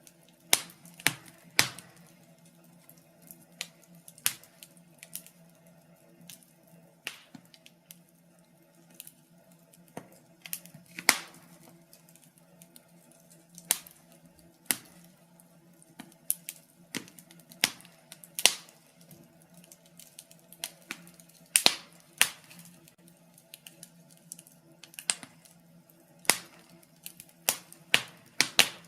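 Wood fire burning in a fireplace: irregular sharp crackles and pops from the logs, over a faint steady low hum.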